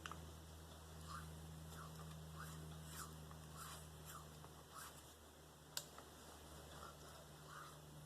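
Spyderco Endura 4 knife blade drawn in light alternating passes over a sharpening surface, a faint, soft scrape roughly every half second, with one sharp tick nearly six seconds in. This is burr-removal work at very light pressure.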